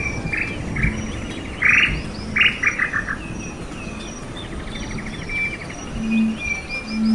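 Several wild birds chirping and whistling, with loud, rapid chattering calls between about 1.5 and 3 seconds in, over a background of insects. A short low humming note sounds a few times, most strongly near the end.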